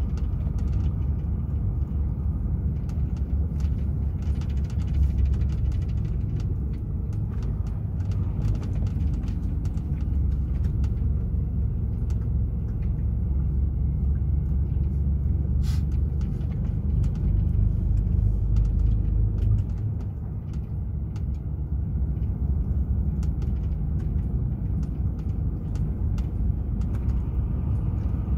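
DAF XF 480 truck on the move: a steady low rumble of its diesel engine and road noise, easing off briefly about twenty seconds in before picking up again.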